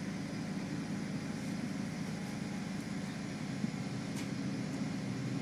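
Steady low drone of a diesel railbus on the move, heard from inside the passenger cabin, with a faint tick about four seconds in.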